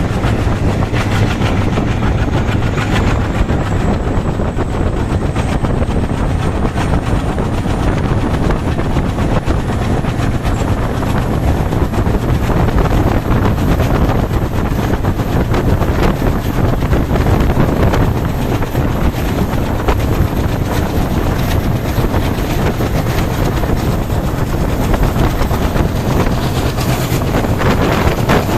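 A train hauled by an Alco WDP3 diesel locomotive running at high speed: a steady loud rumble of wheels on rail and rushing wind, with scattered clicks over rail joints. A faint high whine rises slowly in pitch.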